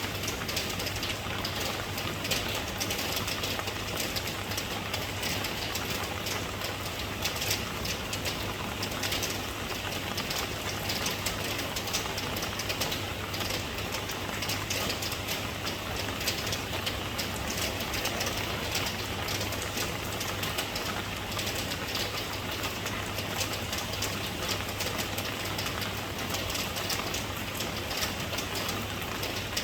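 Steady rain falling, a dense, even patter of drops, with a steady low hum underneath.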